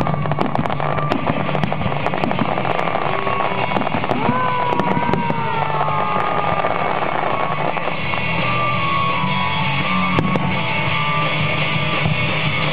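Fireworks crackling and popping in quick, irregular bursts over rock music with guitar; after about eight seconds the crackle thins out and the music carries on.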